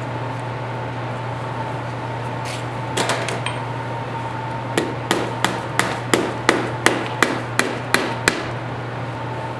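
Hammer strikes: a couple of knocks about three seconds in, then a run of about eleven even blows, roughly three a second. A steady hum runs underneath.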